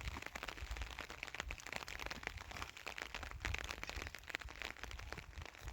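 Heavy rain pattering, a dense irregular spatter of drops over a low rumble.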